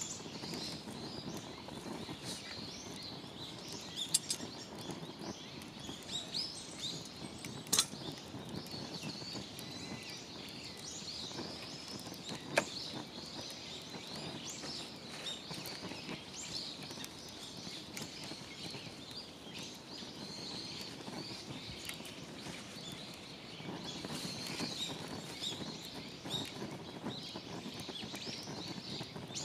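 Small birds chirping and twittering throughout over steady outdoor background noise, with a few sharp clicks.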